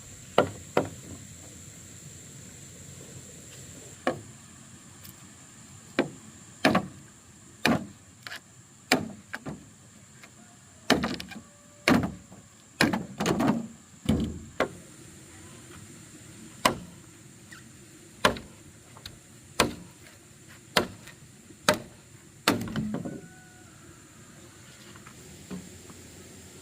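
A series of sharp knocks or chopping strikes, about twenty, irregularly spaced roughly a second apart, bunched closer together a little before halfway and again near the end, over a thin steady high-pitched whine.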